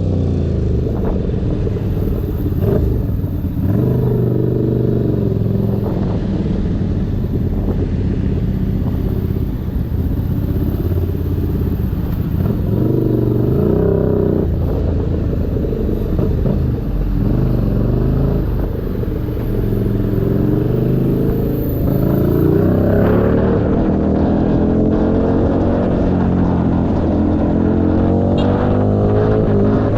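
Keeway SCR 250's 250cc V-twin engine running through a Racefit free-flow exhaust, its pitch rising and falling again and again as it revs and eases off, with a long climbing rev near the end.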